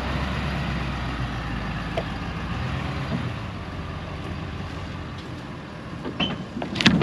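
A vehicle engine running with a low drone that eases off a few seconds in, then a few sharp clanks near the end, the last one the loudest.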